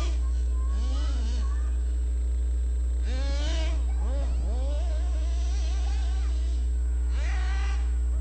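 Redcat Hurricane RC car's motor buzzing at a distance, its pitch sweeping up and down in several bursts, over a steady low hum.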